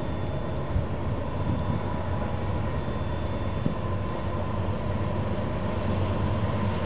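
Distant Union Pacific diesel freight train approaching: a steady low rumble that grows slightly louder toward the end.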